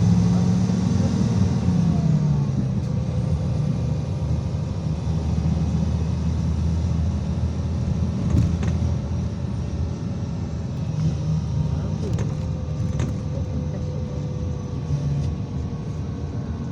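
IVECO Crossway 13M PRO city bus driving, its diesel engine and drivetrain making a steady low drone. A faint whine falls slightly in pitch near the end, and a few sharp clicks or rattles come in the second half.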